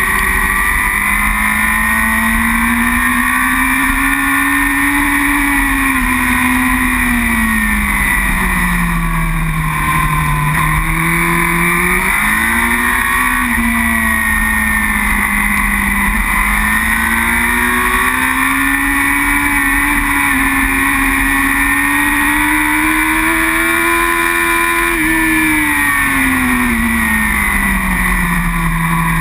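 Superbike engine heard from an onboard camera at racing speed, its pitch rising and falling in long smooth sweeps as the rider accelerates and rolls off through the turns, dropping low near the middle and again near the end. A steady rush of noise runs underneath.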